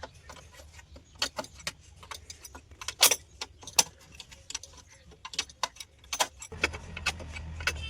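Irregular metallic clinks and taps of steel being handled and struck in a blacksmith's shop, several a second and uneven in loudness. A low hum comes in near the end.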